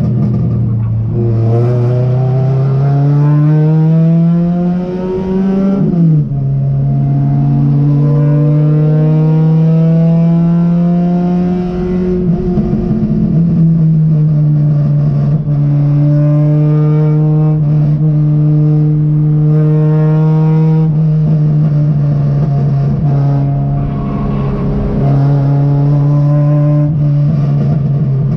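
Race car engine heard from inside the stripped-out cockpit, pulling hard up through the revs with upshifts about six and thirteen seconds in, then holding steady high revs with a brief lift about twenty-four seconds in.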